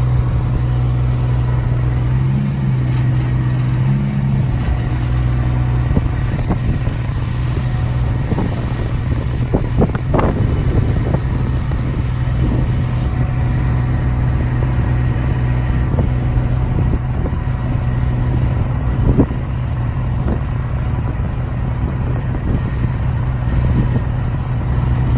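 Kubota three-cylinder pony motor running steadily to power the bucket truck's hydraulics, with a few short knocks from the equipment being worked, the loudest about ten and nineteen seconds in.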